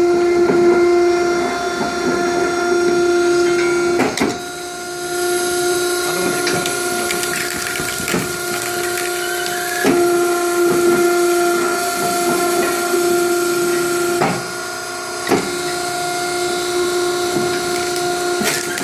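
Homemade firewood-making machine running with a steady whine, with sharp knocks every few seconds as the wood is worked.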